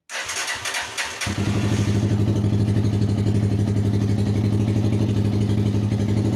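Honda TMX 125's single-cylinder four-stroke engine starting: a second of uneven clatter as it turns over, then it catches and settles into a steady idle.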